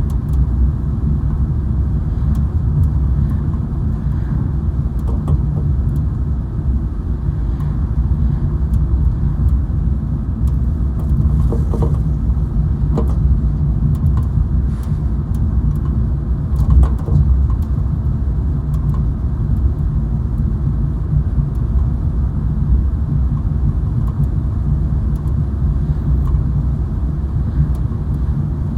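Steady low rumble of a car driving, heard from inside the cabin, with a few faint clicks and rattles.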